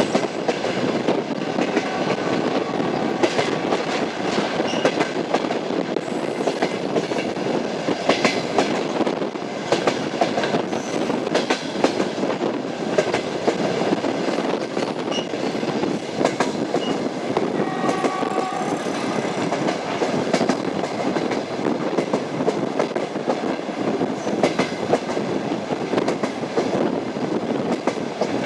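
Passenger train running along the track: a steady rumble with the clatter of wheels over rail joints.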